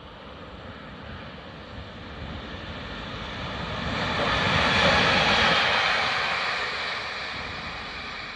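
A train passing by: a rushing noise that builds to its loudest about five seconds in, then fades away.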